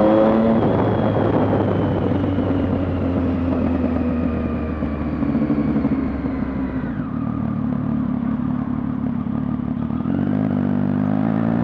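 Triumph Street Triple Rx's 675 cc three-cylinder engine through a Coffman's exhaust with the baffle in, heard from inside the rider's helmet with wind noise. The engine note finishes rising at the start, holds through the middle, drops about seven seconds in, then climbs again near the end as the bike accelerates.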